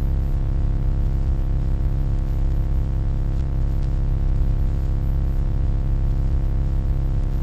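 Steady low electronic hum: a constant deep drone with a stack of steady overtones above it, unchanging throughout.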